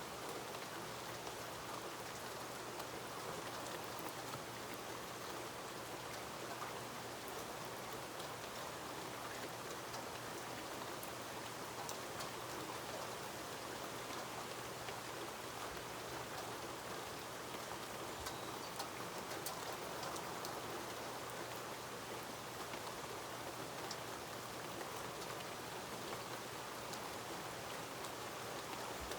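Steady rain falling: an even hiss, with scattered sharp ticks of single drops striking.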